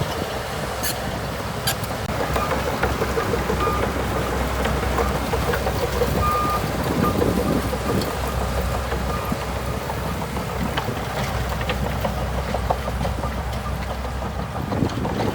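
Heavy diesel engine of a bulldozer running steadily at work, with scattered metallic clanks and a brief faint beep about seven seconds in.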